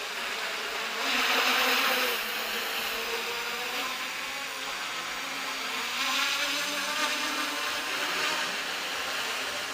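Eight-propeller omnicopter flying, its propellers buzzing. The pitch shifts as it manoeuvres, and the sound swells about a second in and again around six seconds in.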